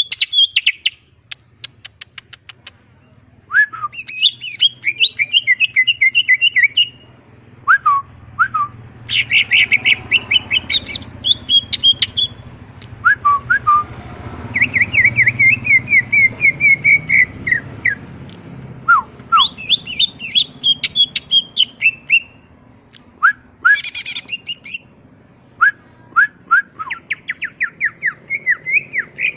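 Greater green leafbird (cucak ijo) singing a varied, loud song: fast chattering trills and runs of repeated whistled notes, broken by short rising notes, with brief pauses between phrases.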